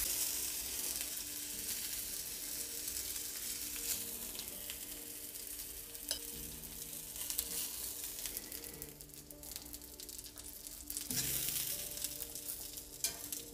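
Köfte and peppers sizzling in a hot cast iron grill pan, a steady high hiss, with a few light clicks of metal tongs as pieces are lifted onto a plate.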